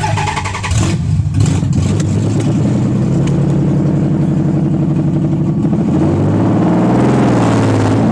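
Nissan 300ZX Z32's naturally aspirated 3.0 V6 running with no exhaust fitted, a loud open-header idle. Near the end the engine speed wavers up and down a little, as with light throttle blips.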